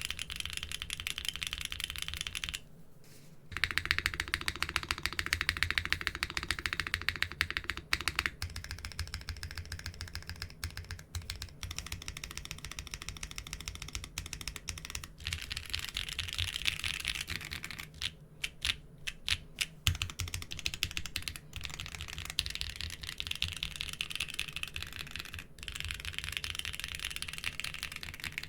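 Fast, continuous typing on a mechanical keyboard with doubleshot keycaps: a dense run of key clacks with a brief pause about three seconds in.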